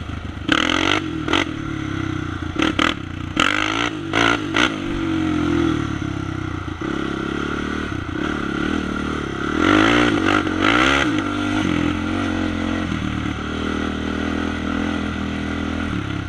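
Honda sport quad's single-cylinder four-stroke engine running under way and revving up and down in pitch, with several short bursts of clatter in the first few seconds and again about ten seconds in.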